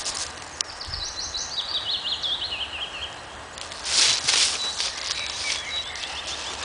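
A songbird sings a fast phrase of quick notes stepping down in pitch, lasting about two and a half seconds, then a second, fainter phrase near the end. About four seconds in comes a brief loud rustle.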